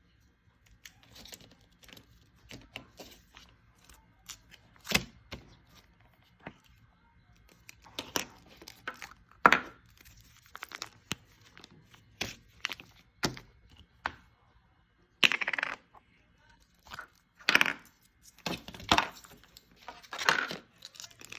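Glitter slime being squeezed and stretched by hand, giving irregular sticky pops and crackles, the louder ones coming in the second half.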